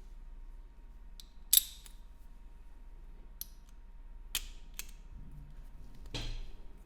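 Small sharp clicks of metal tools at a watchmaker's bench: about five separate clicks, the loudest about a second and a half in, then a short scrape near the end.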